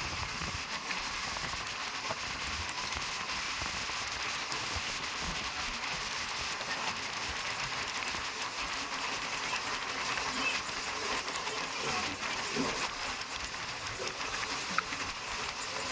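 Steady rushing noise of a moving passenger train, an even hiss with little rumble and no distinct clacks.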